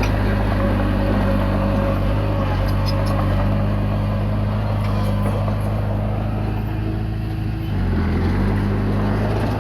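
Komatsu D20P bulldozer's diesel engine running steadily under work. About eight seconds in its pitch dips briefly, then picks back up.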